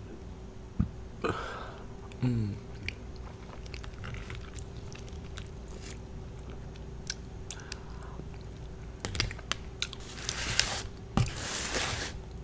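Close-up chewing and wet mouth clicks as someone eats macaroni and cheese off a plastic fork, with a faint steady hum underneath. Near the end comes a rustling scrape as the paper plate is slid across cardboard.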